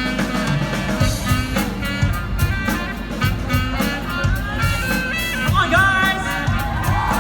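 Live pop band playing an instrumental break: a steady drum beat under sustained chords, with gliding melodic notes in the second half.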